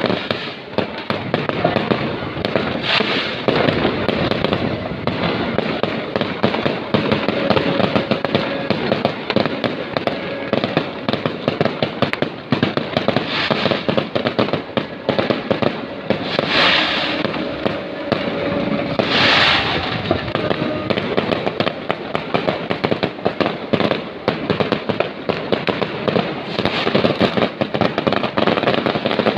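A dense, continuous fireworks barrage: rapid crackling and popping with no break, and a few louder flares of bursts spread through it.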